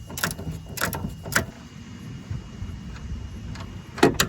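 Sharp metal clicks and knocks from tools and suspension parts being handled: a few in the first second and a half, a quieter stretch, then two louder knocks near the end.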